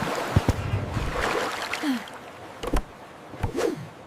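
Water sloshing and splashing, with a few sharp knocks.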